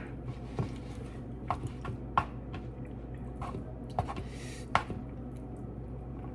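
Close-up chewing of Buldak instant noodles: wet mouth smacks and clicks at irregular intervals, about eight of them, over a low steady room hum.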